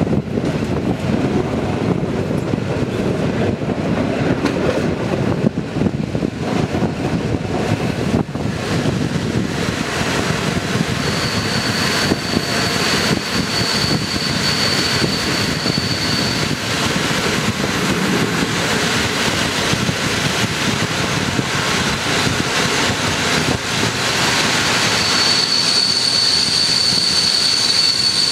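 Passenger train heard from on board, wheels running on the rails with a steady rumble and hiss. A high, steady brake squeal sets in about eleven seconds in, fades, and returns near the end as the train slows alongside the station platform.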